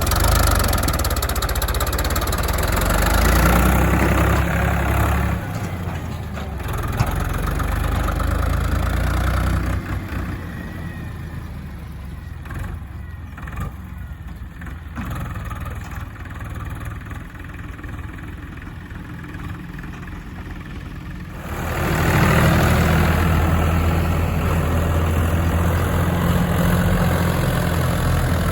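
Heavy diesel engine running close by, loud at first, easing to a quieter run for about ten seconds, then picking up sharply and loud again about 21 seconds in.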